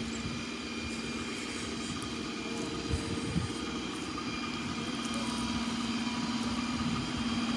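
Ford F-750 Super Duty tow truck's Power Stroke diesel engine running steadily, with a constant hum that grows slightly louder toward the end.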